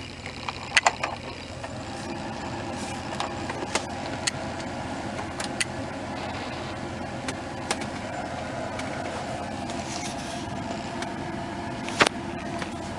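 Steady whooshing hum of a pickup truck's cab ventilation blower running, growing a little louder about two seconds in, with a few scattered sharp clicks.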